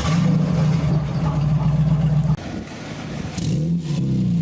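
Car engine running at a steady, fast idle, cutting off sharply about two seconds in; then an engine note that rises and falls and settles back to steady running near the end.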